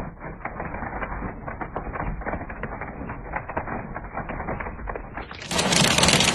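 Hailstones pelting down in a dense, rapid clatter of hits. Near the end it gives way abruptly to a louder, steady rushing noise.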